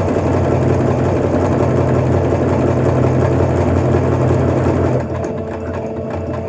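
Portable electric sewing machine running steadily as it stitches a one-step automatic buttonhole. About five seconds in it turns a little quieter.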